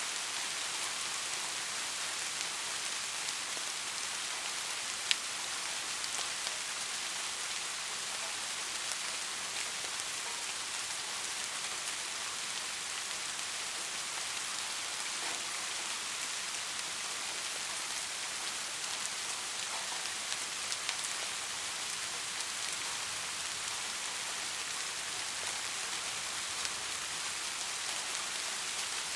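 Steady rain falling, an even hiss with scattered drops ticking on a surface and one sharper drop tick about five seconds in.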